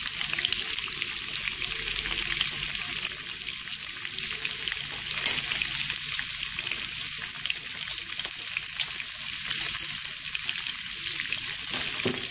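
Sliced green capsicum and shredded cabbage frying in hot oil in a pan: a steady sizzling hiss full of small pops.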